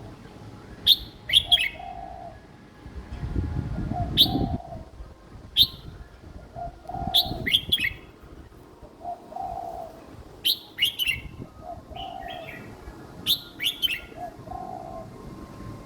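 Young red-whiskered bulbul singing short, simple phrases over and over, a new phrase every one to three seconds. A low rumbling noise comes in briefly about three to four seconds in.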